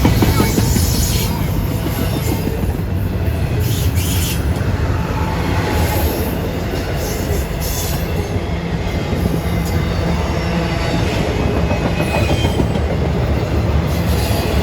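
A train rolling past close by: a steady heavy rumble of steel wheels on the rails, with intermittent high-pitched wheel squeals.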